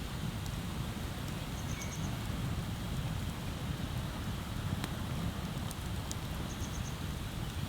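Wood bonfire burning, with a few sharp crackles and pops over a steady rushing background.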